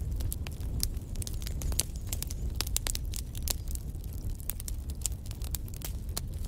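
Fire burning in a fireplace, crackling: frequent sharp pops and snaps, several a second, over a low steady rumble.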